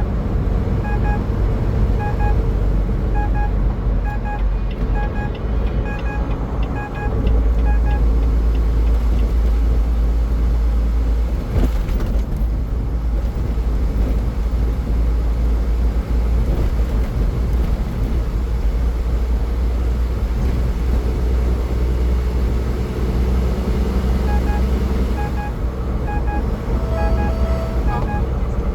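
Steady low road rumble of a car driving at highway speed. A faint short two-part ticking repeats about once a second for the first several seconds and returns near the end.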